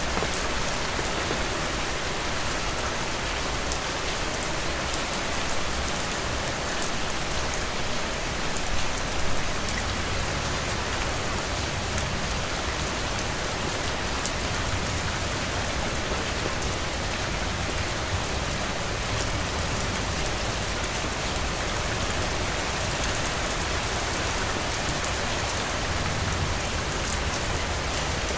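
Heavy rain falling steadily: an even hiss of rain with scattered louder drops, swelling slightly for a moment about nine seconds in.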